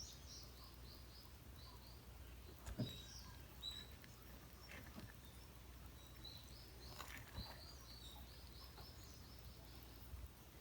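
Quiet outdoor ambience with faint, high bird chirps in quick runs near the start and again in the second half, and a couple of soft knocks.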